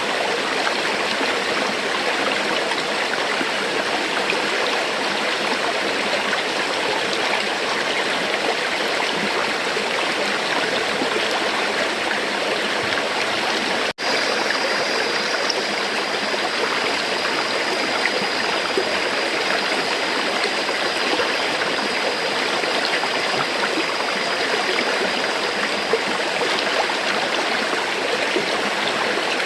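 River water flowing and rushing steadily. The sound cuts out for an instant about halfway through, then carries on.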